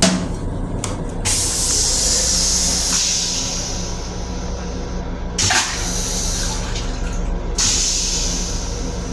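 Hissing spray from a restroom fixture aboard an M7 railcar. It starts about a second in, stops, then restarts twice, the second time with a thump, over the steady low rumble of the moving train.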